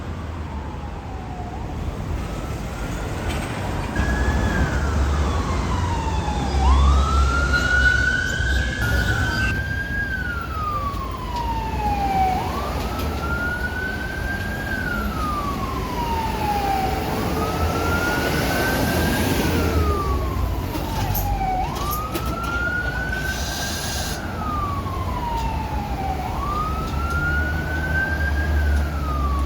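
Emergency siren on a Honda ST1300P paramedic motorcycle, sounding a wail. Each cycle climbs quickly and falls away slowly, repeating about every three seconds over a low engine and traffic rumble.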